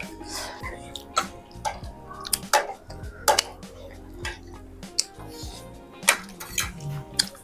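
Scattered sharp clicks and clinks of dishes and eating utensils during a meal, over background music.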